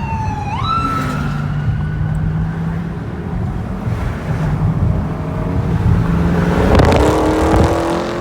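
Car engine droning under road noise, then about seven seconds in an engine opens up and accelerates, its pitch climbing steadily. In the first second and a half a high, falling, siren-like tone jumps up and fades out.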